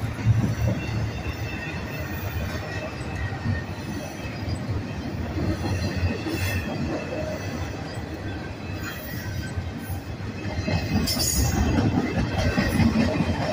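Union Pacific double-stack intermodal train's well cars rolling past close by: a steady rumble of steel wheels on rail, with faint intermittent wheel squeal and a brief sharper screech about eleven seconds in.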